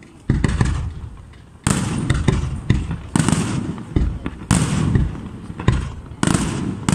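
Fireworks display: aerial shells bursting one after another, a loud bang about every second or so, each dying away in a rumbling tail, with smaller pops in between.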